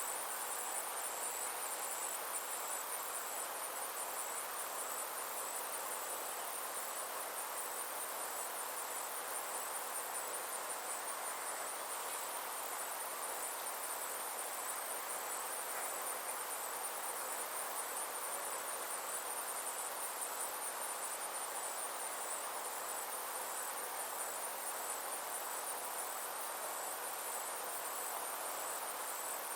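Summer insects trilling steadily at a high pitch, a fine continuous pulsing that never stops, over a soft even background hiss.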